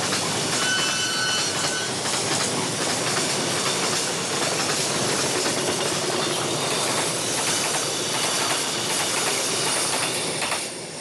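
Passenger train coaches rushing past at speed on the track: a steady, loud rumble and rattle of wheels and carriages, with a brief high-pitched tone about a second in. The sound fades away near the end.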